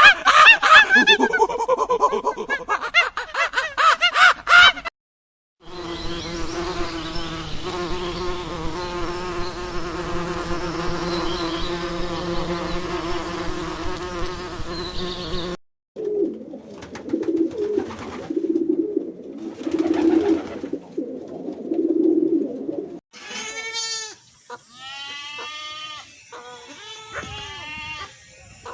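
A run of separate animal sound recordings cut one after another. First come loud honking fowl calls, then a steady drone of many overlapping voices. Next is a series of short low calls in bursts, and from about 23 s on come high chirps, each sweeping downward, like small birds.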